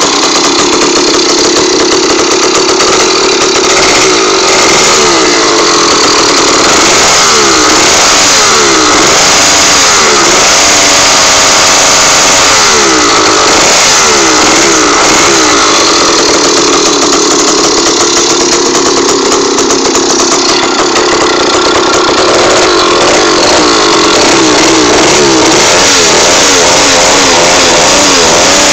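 80cc two-stroke motorized-bicycle engine with an open, unmuffled exhaust, running loud and revved up and down in several bursts of throttle blips, dropping back to a steady run between them.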